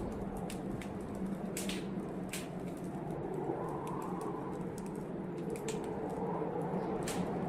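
Wood fire in a fireplace crackling, with sharp pops every second or so over a steady low rushing noise.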